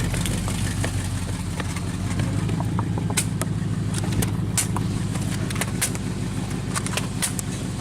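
A vehicle engine running steadily at idle, with scattered light clicks and knocks over it.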